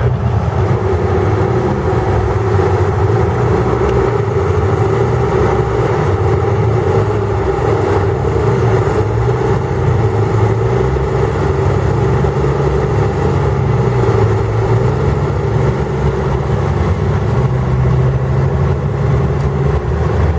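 A Jeep Grand Cherokee's engine running steadily while the SUV sits stuck in a mud pit. Its revs rise and fall a little.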